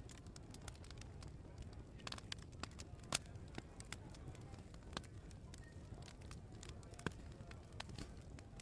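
Open wood fire crackling, with irregular sharp pops of varying strength, the loudest about three seconds in, over a steady low rumble.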